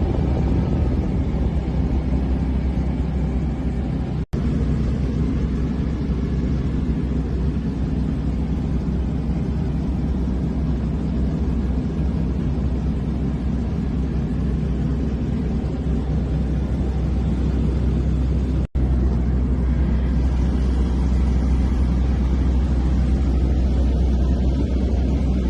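Small airplane's piston engine and propeller droning steadily in flight, heard from inside the cockpit, with two split-second dropouts about four and nineteen seconds in.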